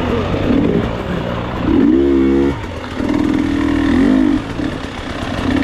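Dirt enduro motorcycle engine under load, revving up and down with the throttle, loudest in a burst about two seconds in and again from about three to four and a half seconds in.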